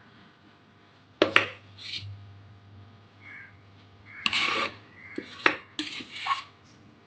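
Metal cookware clanking in a kitchen: a couple of sharp clanks about a second in, then a cluster of knocks and scrapes from about four seconds on, as vessels and plates of idli batter are handled.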